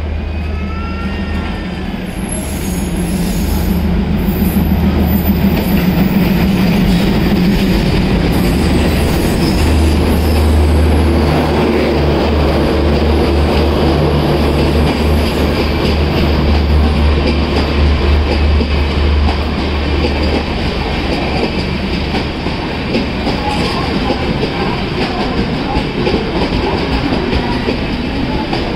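Twin WDM3D ALCO diesel locomotives hauling a passenger train into the station, their engines giving a deep drone that swells and then fades after about twenty seconds. The coaches then roll past with wheels clattering over the rail joints and squealing.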